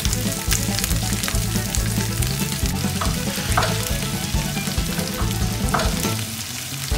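Broccoli, cauliflower and green beans sizzling in hot olive oil in a frying pan: a steady frying hiss with scattered crackling pops, easing slightly near the end.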